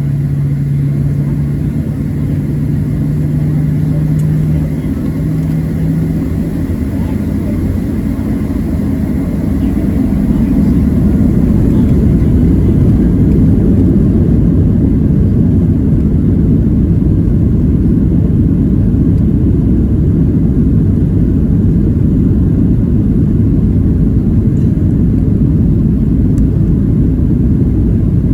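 Boeing 737-700 cabin during takeoff and initial climb: the CFM56-7B engines run at high thrust with a steady low rumble. A low steady hum stops about five seconds in and another about two seconds later, and the rumble gets louder about ten seconds in.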